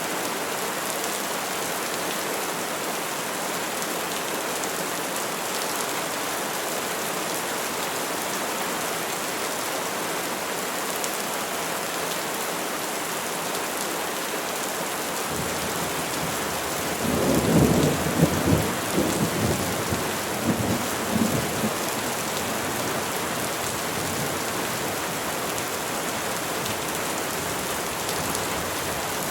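Steady rain falling on trees, with a rumble of thunder a little past the middle that swells for a few seconds in several surges and then dies away under the rain.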